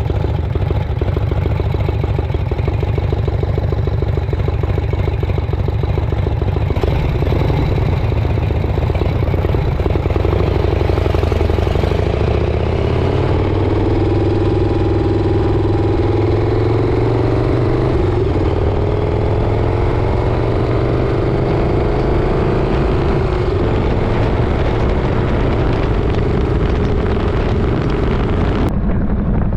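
Motorcycle engine running steadily under way, its pitch climbing slowly through the second half.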